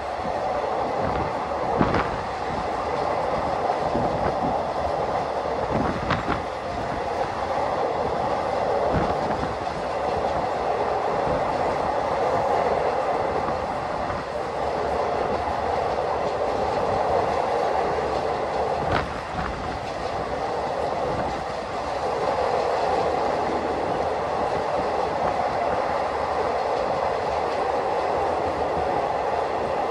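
Thai long-distance rapid train carriage running on elevated track: a steady rumble of wheels on rail, with a few sharp clacks from the wheels along the way.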